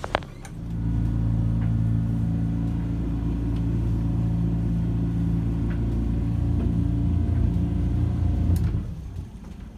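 Boat engine throttled up about half a second in, running loud and steady with a deep hum, then eased back shortly before the end. A couple of sharp knocks at the very start.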